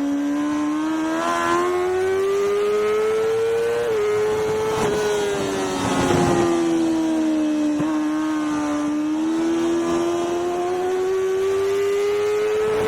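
Racing motorcycle's engine heard onboard at speed on a race track, with wind rush. The revs climb, drop slightly at a gear change about 4 seconds in, ease off as the bike slows, then climb steadily again from about 8 seconds on.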